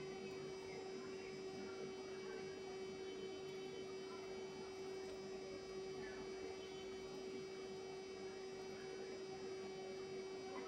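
Steady hum: one constant, unchanging tone with fainter higher tones and a low hiss beneath it.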